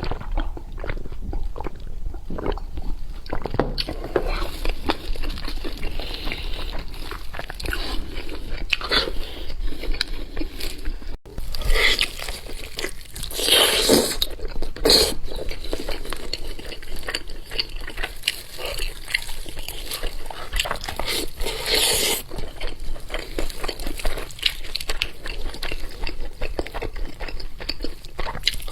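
Close-miked eating sounds: a person chewing and biting meat, with crunches, wet mouth noises and the odd louder slurp-like burst.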